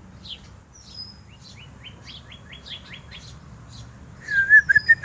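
Small birds chirping and tweeting repeatedly, with a quick run of rising notes in the middle. About four seconds in comes a loud, wavering, warbling whistle, the loudest sound here.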